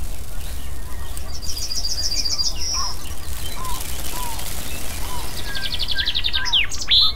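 Birdsong: two high, rapid trills of about ten repeated notes a second, each lasting about a second, with scattered short chirps and quick upward-sweeping calls near the end, over a steady low rumble.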